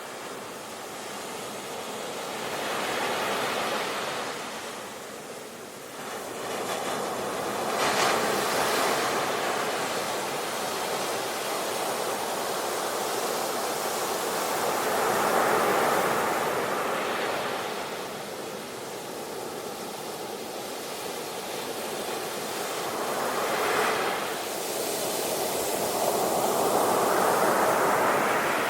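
Sea waves breaking and washing on a shore, a continuous hiss that swells and ebbs with each wave, cresting several times.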